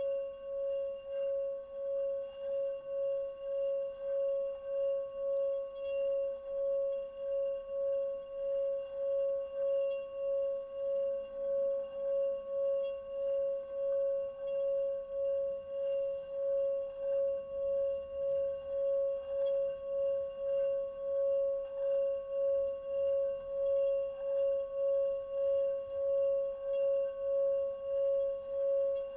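Singing bowl held at one sustained ringing tone with fainter higher overtones, its loudness pulsing steadily about one and a half times a second.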